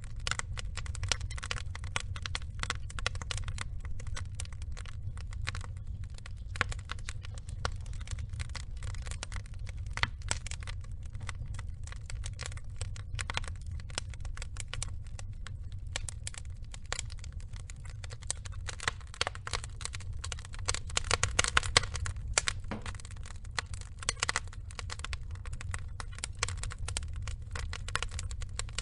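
Burning logs crackling and popping in quick, irregular clicks over a steady low rumble of the fire, with a burst of louder pops a little past two-thirds of the way through.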